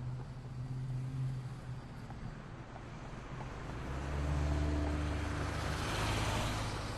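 Street traffic: a low engine hum, then from about four seconds a vehicle passing close, its low rumble and tyre hiss swelling to a peak near six seconds and easing off.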